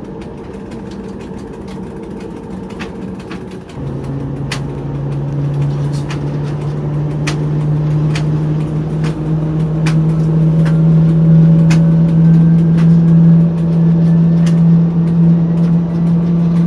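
TEP70 locomotive's 16-cylinder turbocharged diesel engine running. About four seconds in, its note steps up and it keeps climbing and growing louder as it takes load, with a faint rising turbocharger whistle from about nine seconds. Scattered sharp clicks sound over it.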